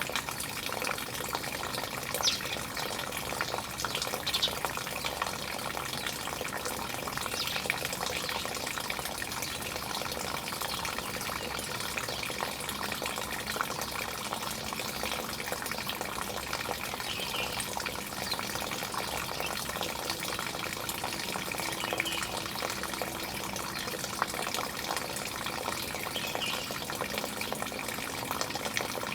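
Steady running water, with a few short bird chirps now and then.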